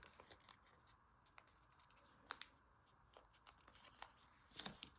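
Faint rustling and crinkling of origami paper being folded and pressed down by hand, as scattered small crackles with a slightly louder cluster near the end.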